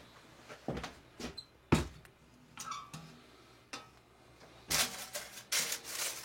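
Handling a freshly baked loaf in its baking paper inside a cast-iron Dutch oven: scattered knocks and scrapes, one sharp knock about two seconds in, then a crackly crinkling of the paper near the end.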